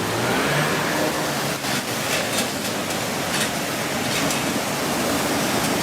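Fast-flowing floodwater rushing, a steady loud hiss of water with a few faint splashy crackles in the middle.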